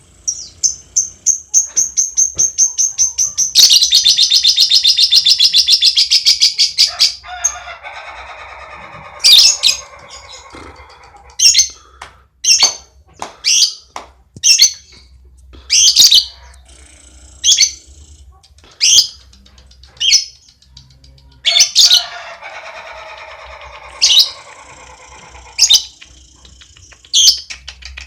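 Lovebird singing its long 'ngekek' song. A fast run of shrill high chirps speeds into a continuous loud trill for a few seconds, then drops into lower chattering. After that come single sharp chirps about once a second, with another stretch of chattering near the end.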